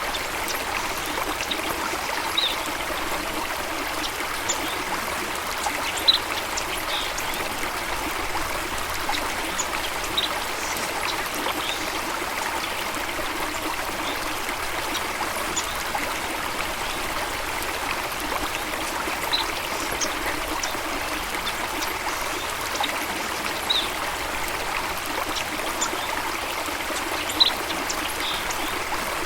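Steady running water, a stream or cascade flowing at an even level. A few brief, sharp, high-pitched sounds are scattered through it.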